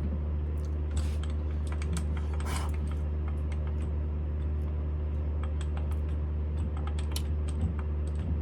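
Smithy CB-1220XL combination lathe running steadily with a low motor hum, overlaid by scattered light clicks and ticks.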